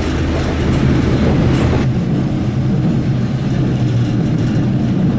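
Diesel railcar running with a steady low drone; about two seconds in the hiss drops away and the drone steps up in pitch.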